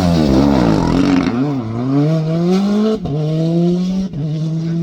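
Rally car engine coming off the throttle, its note falling and wavering, then accelerating hard with the pitch climbing. It shifts up twice, about three and four seconds in.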